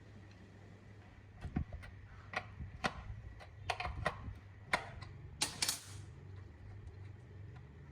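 Irregular sharp clicks and knocks from hand work on the old air compressor's parts, about a dozen in four seconds, the loudest a quick double knock near the end, over a steady low hum.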